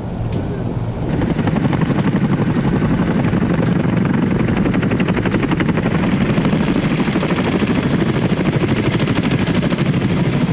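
Helicopter rotor running with a fast, steady beat of the blades, growing louder about a second in.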